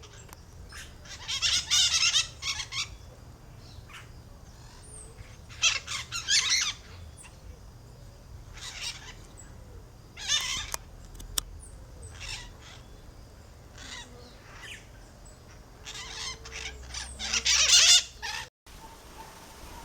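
A bird giving harsh, grating squawks in short bursts every couple of seconds, the loudest near the start and near the end.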